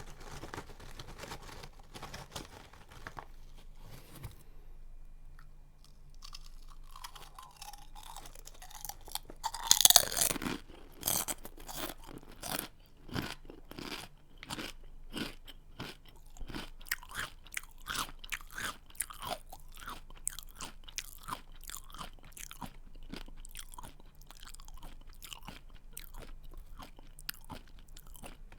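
A person biting into a crunchy snack and chewing it: one loud crunching bite about ten seconds in, followed by a steady run of crunchy chews, roughly two a second.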